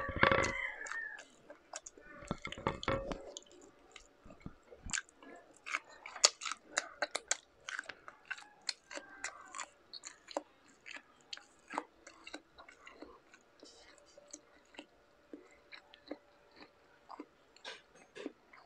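Close-miked chewing and mouth sounds of someone eating buttered garlic shrimp: many small wet clicks and smacks at an irregular pace, loudest in the first three seconds.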